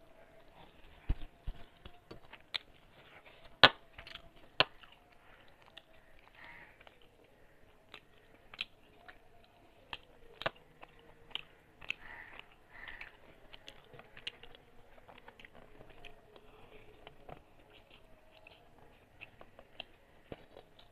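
A person chewing mouthfuls of rice eaten by hand, with soft wet mouth sounds and scattered sharp clicks, the loudest about three and a half seconds in.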